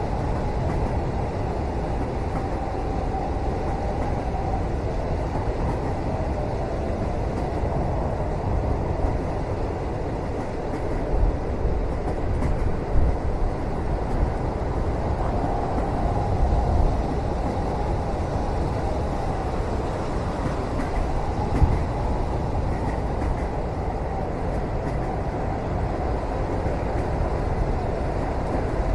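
Steady low rumble of a moving train heard from inside a passenger cabin, with a few louder knocks now and then.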